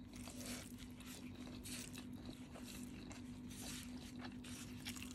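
A person chewing a mouthful of noodles and rice, with many short, soft, irregular mouth clicks. A faint steady hum runs underneath.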